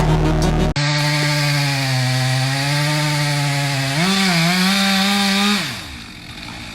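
Chainsaw running at high speed, cutting wood. Its pitch wavers and rises briefly about four seconds in, then falls away as the throttle is let off near the end.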